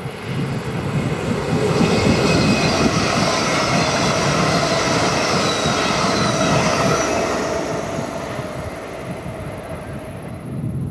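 Train passing at speed through a station: a rumble that swells over the first two seconds, holds, then fades from about seven seconds in, with a faint high whine over it.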